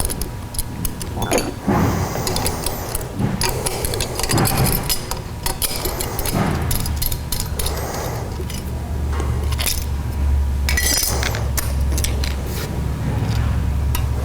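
Metal clinking and clicking as a 9/16 wrench works the retaining nut off the switch of an edger, irregular short taps of tool on metal over a low steady hum.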